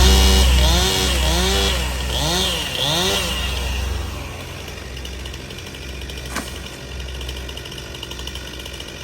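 Chainsaw engine revving up and down in quick pulses, about one a second, then dropping back to a steady idle about four seconds in.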